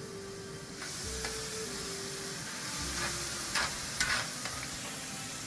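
Food sizzling in a hot pot. The hiss swells about a second in, and a few utensil clinks sound midway.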